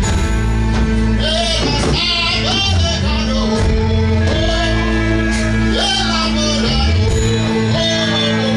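Live worship music: steady bass notes and held chords, with a singing voice bending and sliding over them in a few long phrases.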